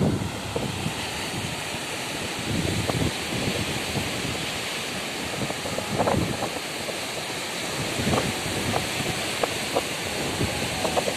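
Sea surf washing on a beach, under wind buffeting the microphone in low rumbling gusts, with a few short sharp pops in the second half.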